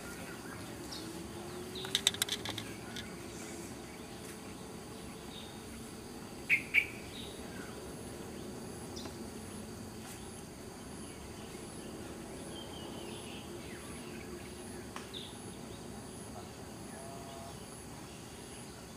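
Outdoor nature ambience: a steady insect drone with scattered short bird chirps. The loudest are a quick cluster of calls about two seconds in and a pair of sharp calls about six and a half seconds in.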